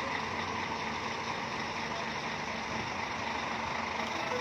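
Bus engines running with a steady, even drone.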